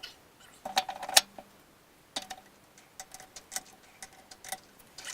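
Irregular sharp metal clicks and clinks with short ringing tones as a small three-jaw lathe chuck is fitted and its steel parts and tools knock together. The loudest clinks come about a second in.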